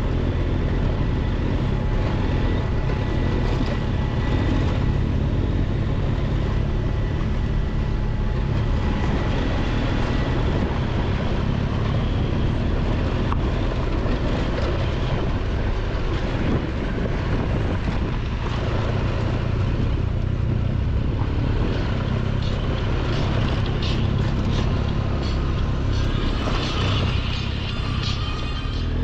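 Triumph Tiger 1200 XCX motorcycle's engine running steadily on a rough dirt road, with wind and tyre noise, and knocks and rattles from the bike over stones near the end.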